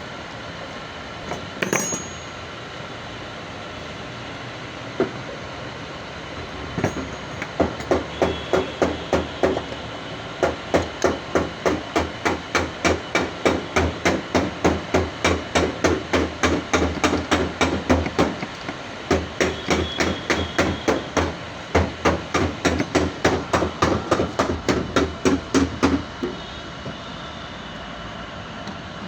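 A hammer striking metal on a car's electric fan motor: a few single knocks, then a long run of steady strikes, about two or three a second, with a brief pause partway and a stop near the end. The blows are working open the motor casing's crimped tabs to get at the armature and brushes.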